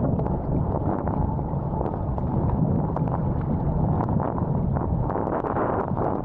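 Strong wind buffeting the camera microphone, with water rushing and splashing under a wing foil board as it rides. A steady low rumble with small scattered ticks of spray.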